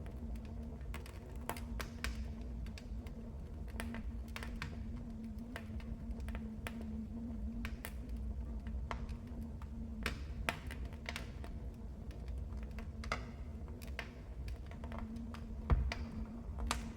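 Wood fire crackling in a fireplace: irregular sharp pops and snaps over a low rumble, with a steady low hum beneath. A louder pop comes near the end.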